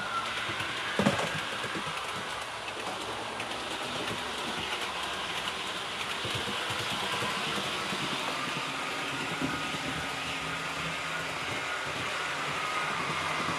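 HO-scale REE TGV model train running along the layout track as it is sped up towards top speed: a steady running sound of the small electric motor and wheels on rail, with a faint whine that shifts slightly in pitch. A single click about a second in.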